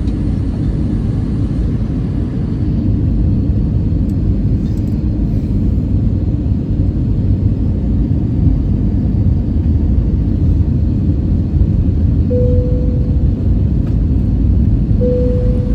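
Steady low rumble of an Airbus A320-214's cabin in flight: engine and airflow noise, during the descent toward landing. Two short steady tones sound about twelve and fifteen seconds in.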